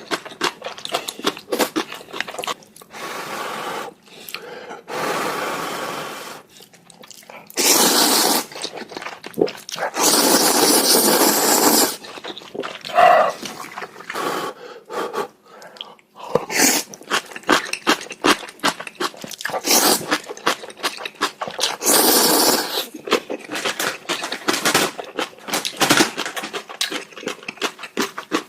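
Noodles being slurped and chewed close to the microphone: several slurps of a second or two, with wet clicking chewing sounds between them.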